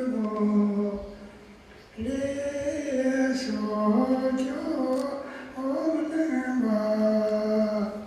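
Voices singing held notes without accompaniment, in three phrases with a short pause about a second in.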